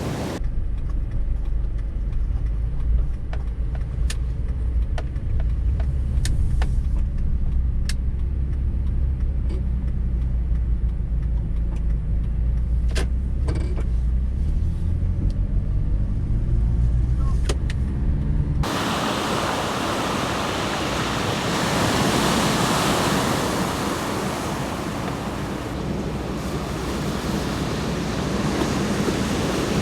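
A deep steady rumble inside a car, with a few sharp ticks. About two-thirds of the way through it cuts suddenly to a steady roar of typhoon wind and surf.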